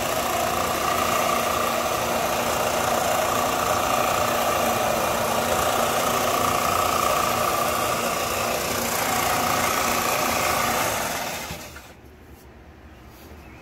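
Electric shop power tool running steadily, then switched off and winding down to stop about 11 to 12 seconds in.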